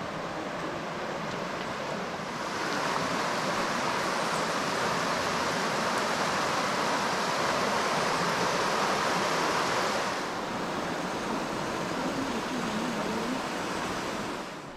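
Steady rush of a rainforest stream's running water. It swells louder for several seconds in the middle, then eases back.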